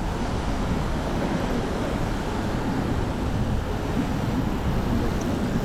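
Steady wind noise buffeting the camera microphone, a rushing rumble heaviest in the lows with no clear individual events.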